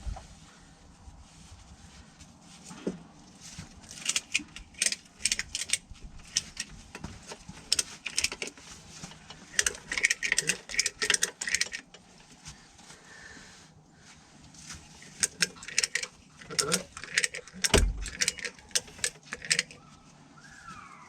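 Runs of sharp metallic clicking and jingling, several bursts with short pauses between, as a ratchet strap's hooks and ratchet are worked to tie the engine down.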